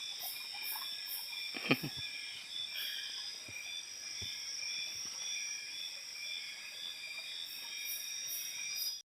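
Night chorus of insects and frogs: steady high trilling under short calls repeating about twice a second. A brief human voice cuts in near two seconds in.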